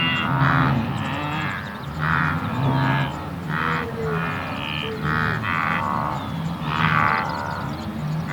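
Calls of a hoofed animal, short pitched calls repeated about once a second, with a low steady hum underneath.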